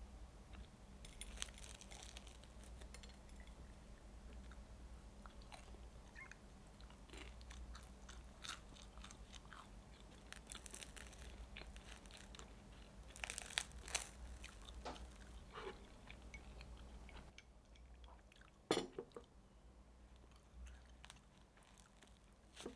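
Close-up eating: bites and crunchy chewing, irregular crisp crackles with one sharper crunch near the end.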